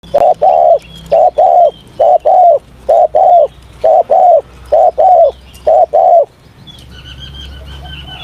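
Spotted dove cooing: eight loud two-note coos in a steady rhythm, a pair about every 0.8 s. Near the end a thin, high, wavering whistle takes over.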